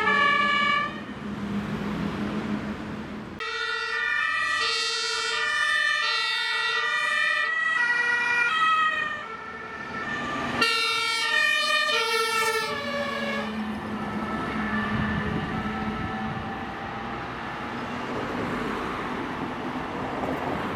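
Fire engines on emergency runs passing with German two-tone sirens (Martinshorn) sounding in alternating steps. Around the middle two horns sound at once, out of step with each other. In between, and for the last several seconds, heavy vehicle engines and tyre noise go by.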